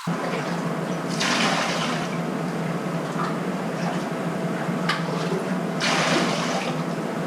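Toilet flushing with its water supply shut off, draining the tank and bowl; the rushing water surges louder twice, about a second in and about six seconds in.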